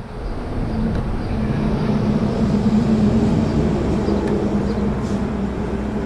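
A steady low mechanical drone, swelling slightly in the middle, with a few faint clicks.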